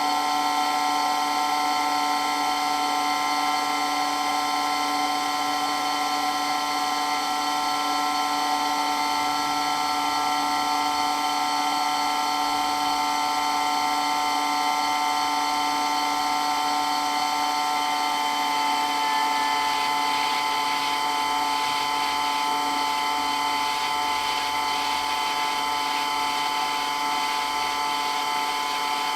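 Electric water pump running steadily with a high, even whine.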